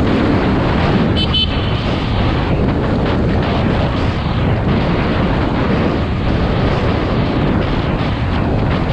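Dual-sport motorcycle engine running under way, mixed with heavy wind buffeting on a helmet-mounted microphone. A brief high chirp or squeak sounds about a second in.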